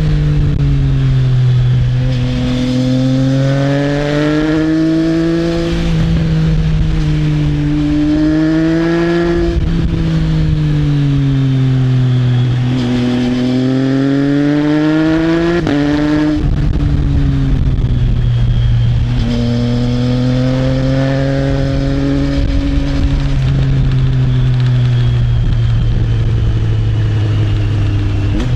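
Triumph Trident 660's three-cylinder engine running through an Arrow exhaust as the bike rides along. The engine pitch climbs under throttle and sinks again several times, with a few abrupt pitch jumps, over a steady rush of wind and road noise.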